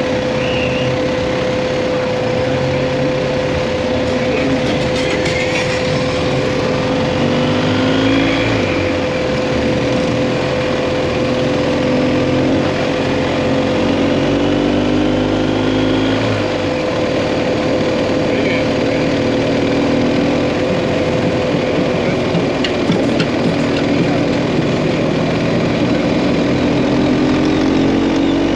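BMW GS Adventure motorcycle engine running on the move, its pitch rising and falling with the throttle, over steady wind and road noise. A steady tone runs alongside and stops about three quarters of the way through.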